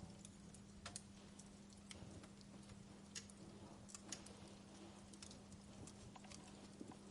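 Faint crackling of a wood fire: irregular sharp pops and ticks from burning logs, a few louder snaps among them, over a steady low hum.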